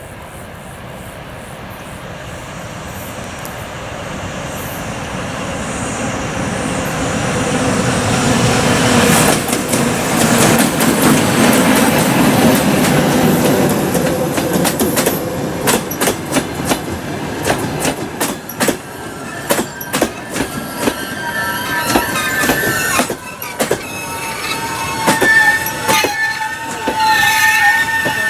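ChME3 diesel-electric locomotive approaching and passing with its suburban train, growing steadily louder over the first several seconds. The coaches then clatter over the rail joints in a run of sharp clicks, and from about two-thirds of the way through the brakes squeal in a steady high, wavering whine as the train slows to stop at the platform.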